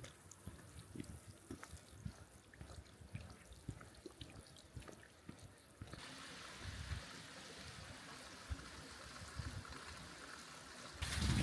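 Faint trickling and dripping water with scattered small ticks, then after a cut about six seconds in, a steady hiss of running water.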